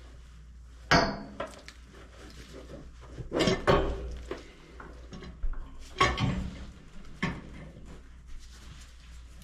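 Irregular metal clanks and knocks from black steel pipe and fittings being handled and fitted, four or five sharp strikes a couple of seconds apart, the first with a brief metallic ring.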